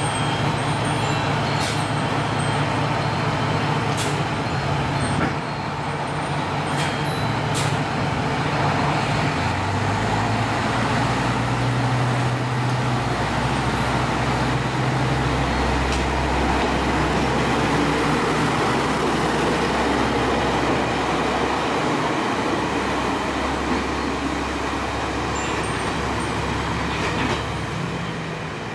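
Diesel engine of a KiHa 32 railcar running, its note rising about ten seconds in and then settling into a deeper, heavier rumble. A few sharp clicks sound in the first several seconds.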